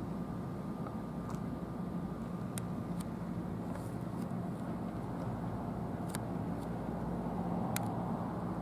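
NJ Transit Arrow III electric multiple-unit train rolling slowly through a rail yard, giving a steady low hum with a few sharp clicks scattered through it.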